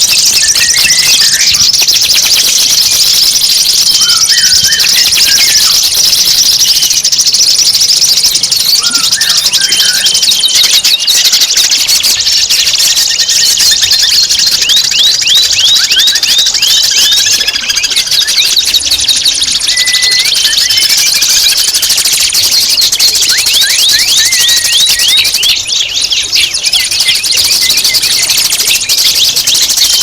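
Songbird song at close range: a dense, continuous high-pitched chatter, overlaid with quick runs of short downward-sweeping whistled notes that come in bursts of several seconds.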